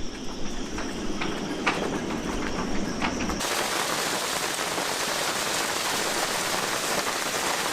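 Storm rain, a steady heavy hiss that starts abruptly about three and a half seconds in, after a quieter stretch of patter with scattered drips.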